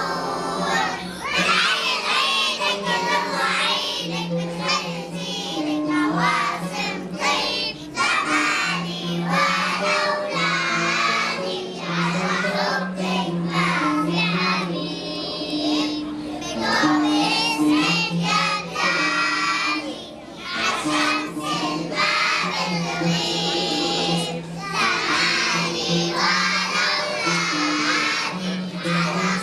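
A group of young children singing a patriotic Arabic song loudly along with a recorded musical backing track.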